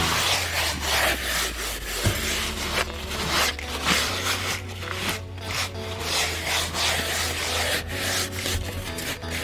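Hand scrubbing: repeated rubbing strokes of a brush or cloth on a surface, over a low steady hum.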